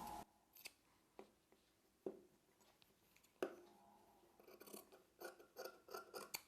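Scissors snipping through silk blouse fabric, faint: a few separate snips, then a quicker run of short cuts near the end, trimming off a leftover piece of cloth.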